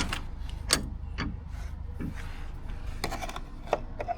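Scattered light clicks, taps and rubbing of hand work on parts, over a low hum that stops about halfway.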